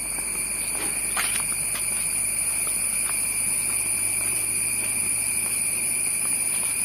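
Steady insect chorus, a continuous high-pitched drone, with a few faint footsteps on the trail.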